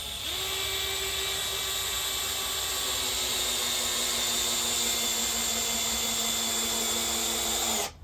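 Older Makita BHP454 18V cordless drill driver in speed 1 driving a 3-inch Phillips screw into a wooden 4x4: a steady motor whine whose pitch sags slightly as the screw goes deeper. It stops abruptly near the end, with the screw driven flush.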